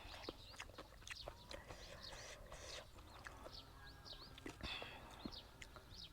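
Faint, repeated short chirps of birds, with scattered sharp clicks and smacks throughout.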